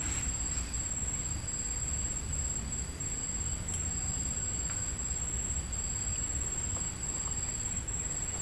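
Insects droning in a steady high-pitched chorus, with a fainter, lower tone that comes and goes, over a steady low rumble.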